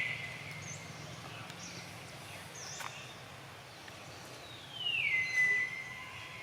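A baby monkey's high, whistle-like calls: one sliding down and trailing off at the start, and a longer, louder one about five seconds in that slides down and then holds steady, with a few short high chirps between.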